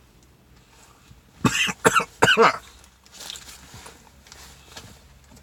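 A man coughing three times in quick succession, about a second and a half in, in the middle of eating a sandwich.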